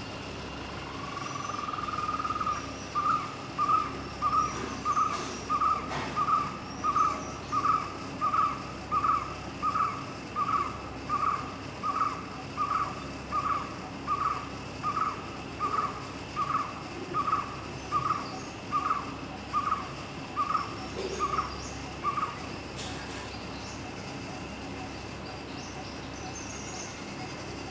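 A bird calling a long, even series of single hoot-like notes, about one and a half a second, after a rising lead-in note; the series stops well before the end.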